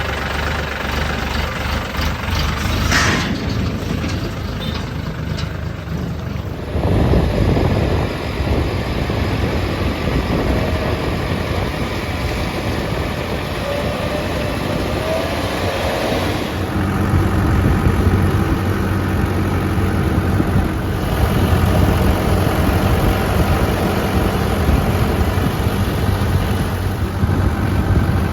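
Heavy diesel engine of earth-moving machinery running steadily. It grows louder and works harder a little past halfway.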